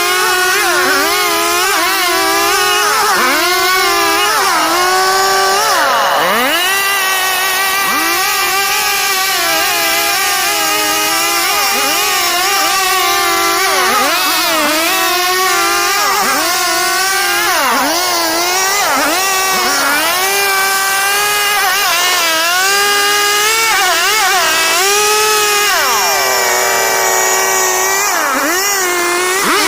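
STIHL two-stroke chainsaw running at high revs while cutting wood, its pitch dipping every second or two as the chain bites into the cut and the engine bogs, then climbing back.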